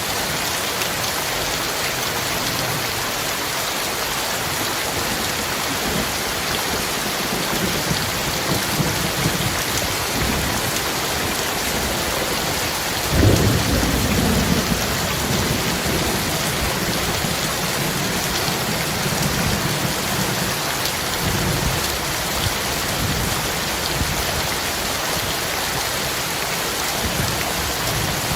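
Heavy rain falling steadily, with distant thunder rumbling low in the background. About halfway through, a sudden thunderclap stands out as the loudest event and rolls away over the next few seconds.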